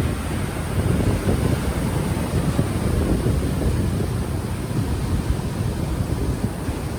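Wind buffeting a microphone that has no windscreen, a continuous uneven low rumble, over the wash of ocean waves on the shore.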